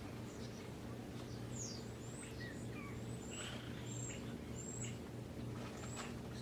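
Birds chirping in short, scattered notes, some of them quick downward sweeps, over a faint steady low hum.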